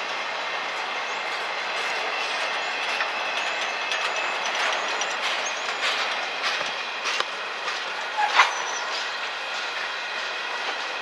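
Freight train cars rolling past: a steady rolling noise of steel wheels on rail, with faint thin squeals from the wheels and several sharp clacks, the loudest about eight seconds in.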